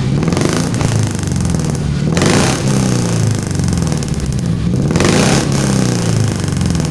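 Suzuki Carry injection's four-cylinder engine revved through a custom exhaust with a 4-3-1 header and the second muffler under test, the pitch swinging up and down with two strong blips of the throttle, about two seconds in and again near five seconds.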